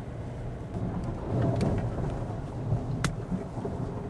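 Low rumble of a Kia Morning's tyres rolling slowly over a rough, narrow road, heard inside the car, with two sharp clicks, the louder one about three seconds in.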